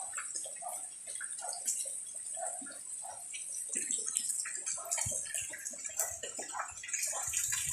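Steady light rain, with drops dripping and splashing irregularly over a steady high hiss.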